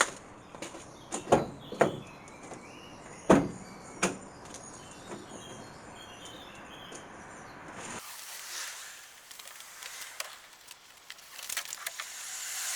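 A few sharp knocks, with small birds chirping faintly behind. About eight seconds in the sound changes abruptly to a steady high hiss.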